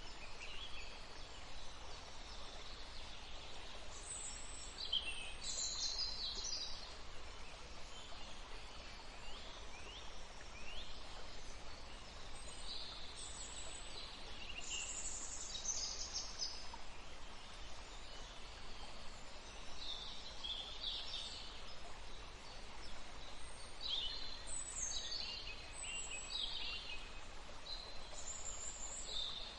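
Steady rush of flowing water with wild birds chirping over it in short runs of quick high calls every few seconds.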